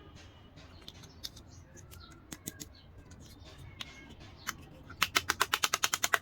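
Scattered light clicks and taps from handling small toy dollhouse parts, then a quick run of about a dozen sharp clicks near the end.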